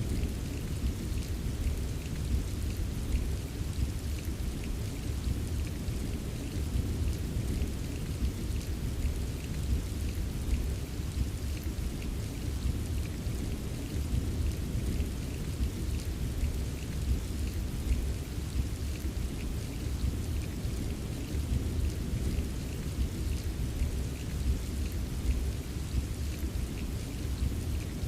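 Steady rain with fine, dense patter of drops over a continuous low rumble of distant rolling thunder, with no single sharp thunderclap.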